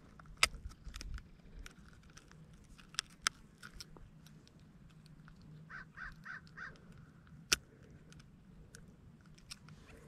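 Sharp clicks and knocks of tackle and the landed bass being handled in a kayak. About six seconds in, a bird gives four short calls in quick succession.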